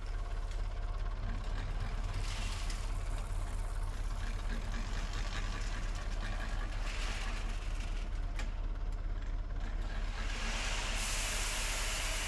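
Backhoe's diesel engine running steadily, with bursts of rushing, hissing noise as corn pours out of a tipped-over tripod deer feeder. The loudest pour comes near the end.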